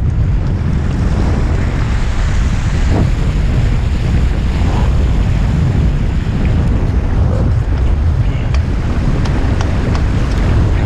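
Steady wind buffeting the camera's microphone, a loud low rumble, over the wash of water along the hulls of a Hobie 16 catamaran under sail, with a few faint ticks late on.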